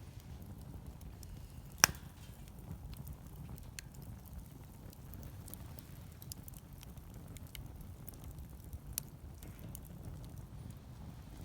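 Wood fire crackling, with scattered small snaps and one sharp, loud pop about two seconds in and a smaller one later. A low, steady rumble lies underneath.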